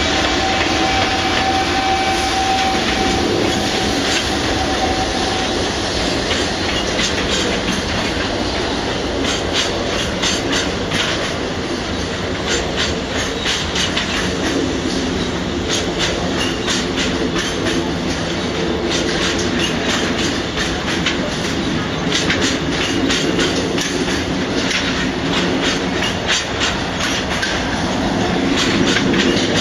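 Freight train rolling past, its wagons' wheels clattering over rail joints in rapid, continuous clacks, with a thin steady tone in the first few seconds.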